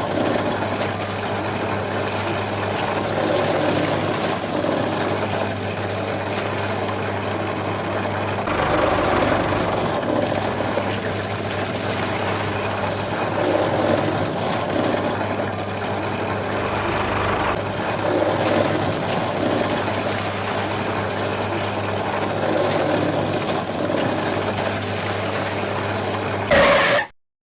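An engine running steadily with a constant low hum. Its sound shifts twice, then cuts off abruptly near the end.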